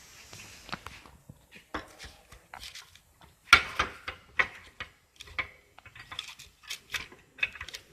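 Metal clamps clinking and knocking against each other and the wooden deck as they are set and tightened on a freshly glued longboard: a run of irregular sharp clicks, the loudest about three and a half seconds in.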